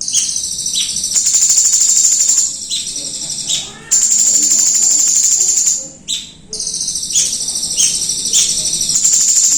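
Songbird song: long, high, rapidly pulsing trills of one to two seconds alternate with short, sharp chirps. The phrase sequence repeats about every five seconds.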